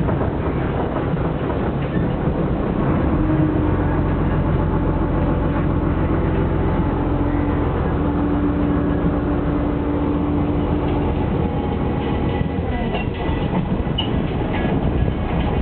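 Boat engine running steadily while the boat cruises, a dense low rumble.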